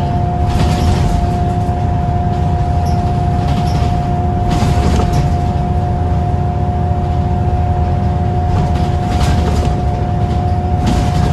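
Scania L94UB single-deck bus with Wright Solar body, its diesel engine driving hard under load: a steady low drone with a steady high whine running over it. Brief rattles or knocks come a little under a second in, about four and a half seconds in, around nine seconds and again near the end.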